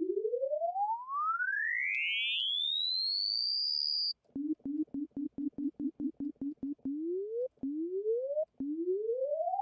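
Arturia Pigments wavetable synthesizer playing a plain tone whose pitch is swept upward by an LFO on the coarse tuning, with detuned unison voices. The tone climbs smoothly from low to very high over about four seconds and cuts off. Then come quick, short repeated low notes, followed by shorter upward pitch sweeps of about a second each.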